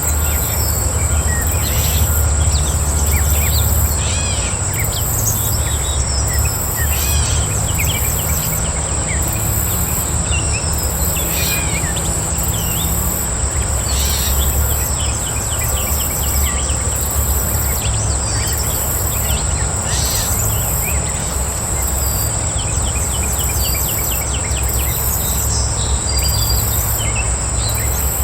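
Outdoor ambience of birds chirping, with many short calls and trills scattered throughout. Under them run a constant high insect trill and a higher insect chirp pulsing about twice a second, over a steady low rumble.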